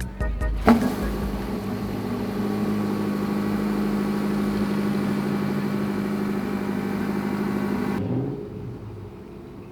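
Sports car engine held at steady high revs for several seconds, then letting off so the revs fall away near the end, leaving a quieter low rumble.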